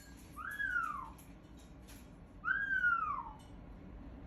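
A pet parrot whistling: two drawn-out whistles about two seconds apart, each sliding up and then down in pitch.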